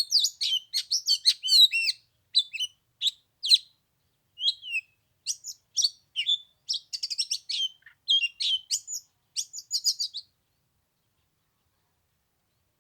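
Oriental magpie-robin singing: a fast, varied run of clear whistles and chirps that stops about ten seconds in.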